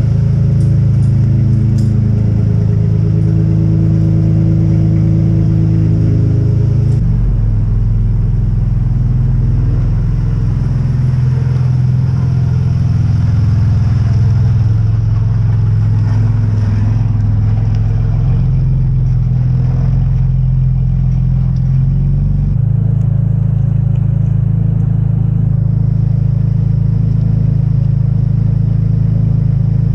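2014 Dodge Charger's 3.6-litre V6 idling through Flowmaster Super 10 mufflers on a cold start after sitting for a month and a half. The steady idle note shifts abruptly about seven seconds in and again past twenty seconds, as the cold idle speed steps.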